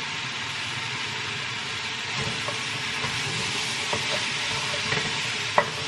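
Food frying in a pan on the stove, a steady crackling sizzle, with a few light clicks of a utensil and one sharper click near the end.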